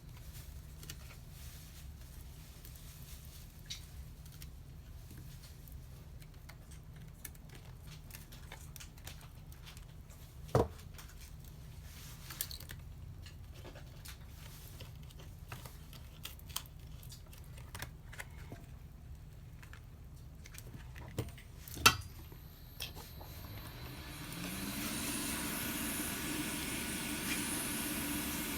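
Small clicks and taps of tools working on a smartphone being disassembled, over a low steady hum, with two sharper clicks. Near the end a blower spins up with a rising whine and settles into a steady hiss.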